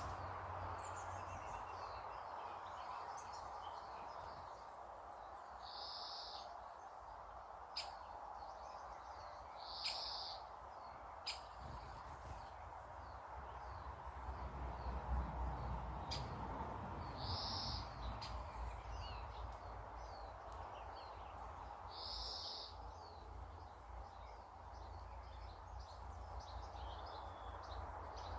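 Birds calling: one bird repeats a short, high, steady note every four to six seconds, with faint scattered chirps from others over a steady background rumble.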